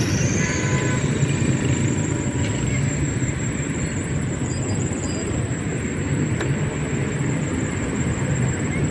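Motorcycle riding through city traffic, its engine running steadily under road and traffic noise.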